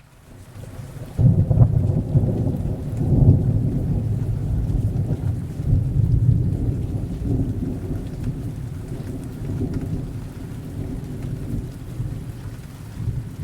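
A rolling thunder rumble over steady rain. The thunder comes in suddenly about a second in, then rumbles deep and slowly dies down.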